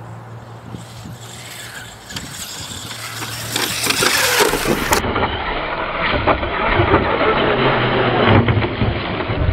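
Traxxas Slash 4x4 RC short-course truck driving fast over dirt, its electric motor and tyres growing louder as it closes in over the first few seconds, then running close by with scattered knocks and scuffs.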